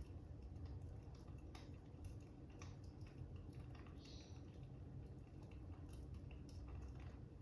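Faint crackling fire: scattered, irregular small pops over a low, steady rumble, with a brief scratchy sound about four seconds in.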